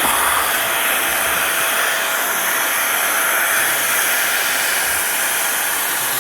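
Air blower running steadily, a continuous rush of blown air with a faint steady whine.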